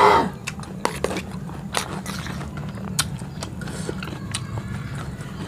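Close-up sounds of a man eating rujak with fried peanuts: chewing, with scattered short crunches and clicks. A brief vocal sound comes right at the start.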